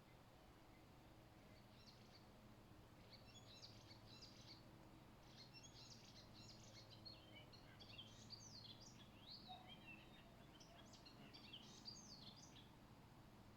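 Faint songbird song: a long run of quick high chirps and warbling, gliding phrases that starts a second or two in and stops about a second before the end, over a faint low steady hum.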